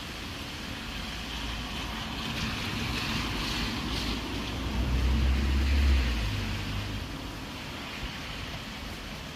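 Steady rain hiss. A low rumble swells about five seconds in and dies away about two seconds later.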